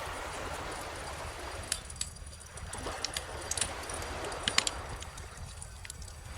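Wood fire crackling with scattered sharp snaps and pops, over a steady wash of gentle ocean waves.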